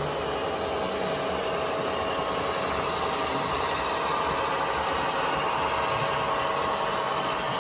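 Train's diesel engine running steadily, with a constant hum and a few held tones.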